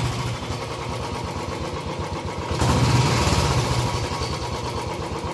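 Motorcycle engine running at low revs with an even pulse, picking up for a moment about two and a half seconds in, then settling back.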